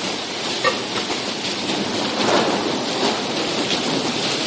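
Heavy rain falling steadily, with a low rumble swelling up about halfway through.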